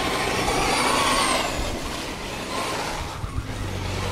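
Traxxas Stampede RC truck's electric motor and drivetrain whining with a wavering pitch as the truck is driven, easing off after about a second and a half.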